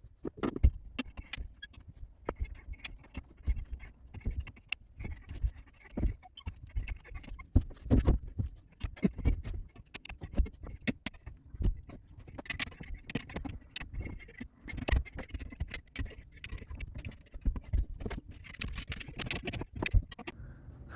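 Irregular light knocks, taps and rattles of hand work, tools and parts being handled, scattered through the whole stretch with no steady sound beneath.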